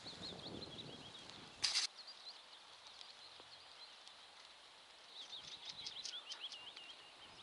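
Small songbird singing quick, warbling phrases of high chirped notes, in two runs with a pause in between, over faint outdoor ambience. A short loud burst of noise cuts in about two seconds in.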